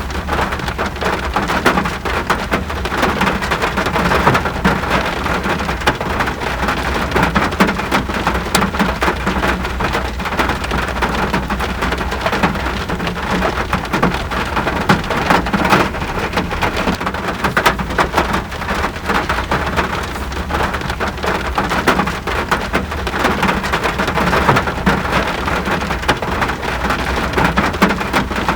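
Steady rain falling, a dense even hiss of countless drops tapping on surfaces.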